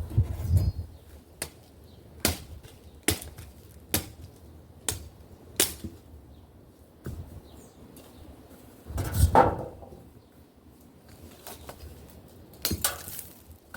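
Firewood being chopped: sharp strikes on wood about once a second, then a longer, louder crunch of wood about nine seconds in and a few more knocks near the end.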